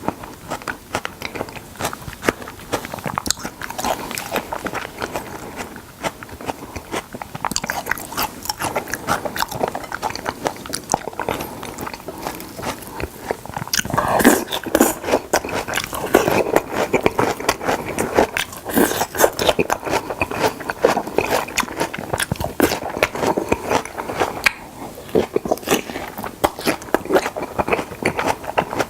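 Close-miked eating of raw salmon: a steady run of bites and chewing, getting louder about halfway through.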